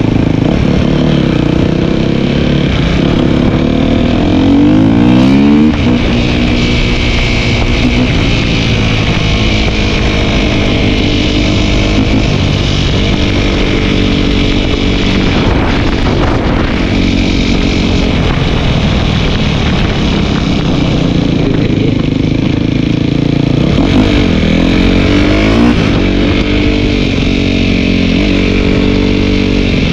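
Dirt bike engine running under way, its pitch rising and falling with the throttle, with clear revs about four seconds in and again near the end.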